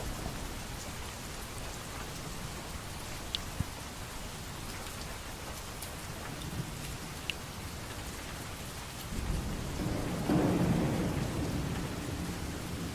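Steady rain falling, with a few single drops ticking. A low rumble of thunder swells about nine seconds in and eases off near the end.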